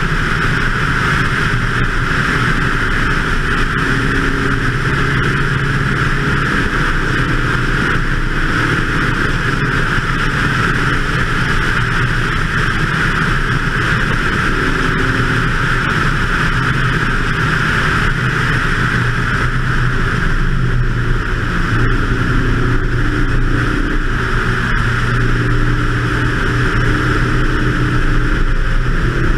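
BMW 2002's four-cylinder engine under load on a track lap, its note shifting up and down several times as the driver accelerates and lifts for corners, under a steady rush of wind noise on the exterior camera's microphone.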